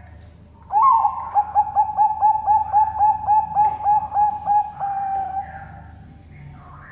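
Zebra dove (Bangkok perkutut) singing one complete song: an opening note, a run of about a dozen quick, evenly repeated coos, and a drawn-out final note that fades. This is the full front, middle and end song that perkutut fanciers listen for.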